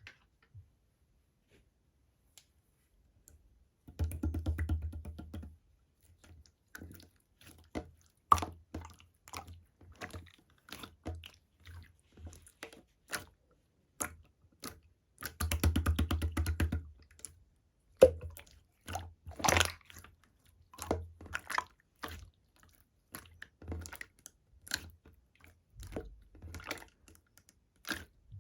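Slime being squished and pressed by hand, making sticky clicks and popping air bubbles. There are two longer runs of dense crackling, about four seconds in and again near the middle.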